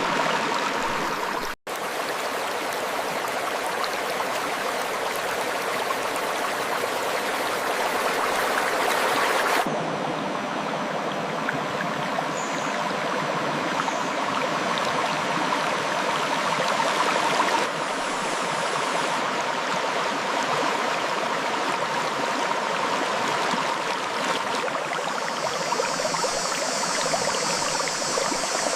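River water flowing over rocks: a steady rushing and gurgling with no other sound. It cuts out for an instant about two seconds in, and its high end changes abruptly twice, as if separate recordings were joined.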